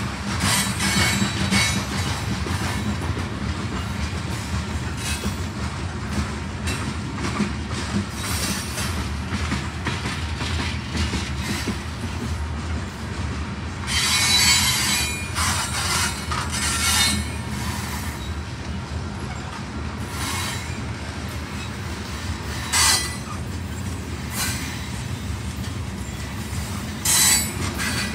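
Grain train's hopper cars rolling slowly past with a steady low rumble, wheel flanges squealing on and off against the rails, loudest about halfway through and in short bursts near the end.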